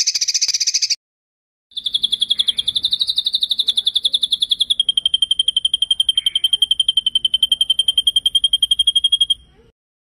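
Recorded songbird trills: a short buzzy trill stops about a second in, then after a brief gap a long, rapid, evenly pulsed high trill runs for about seven seconds, dropping slightly in pitch midway, and cuts off near the end.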